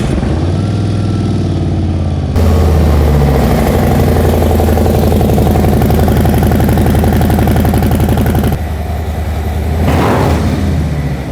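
Harley-Davidson Road Glide ST's Milwaukee-Eight 117 V-twin running through a freshly installed SPC Big Bore 4.5 aftermarket exhaust, just after its first start on the new pipes. It idles, gets louder about two seconds in and holds there, then drops back near the end, with a rise in pitch near the end.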